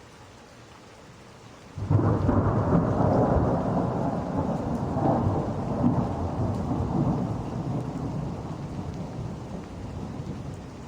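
Steady rain hiss, then about two seconds in a sudden loud thunderclap that rolls into a long rumble, slowly fading.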